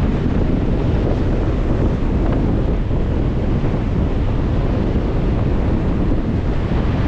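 Strong wind buffeting the microphone in a steady low rumble, with Lake Michigan waves breaking on the shore beneath it.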